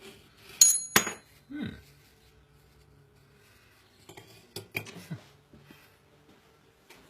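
Clinks and knocks of kitchenware being handled: a sharp ringing clink about half a second in, a second knock just after, then a few lighter clicks and taps around the four-to-five-second mark.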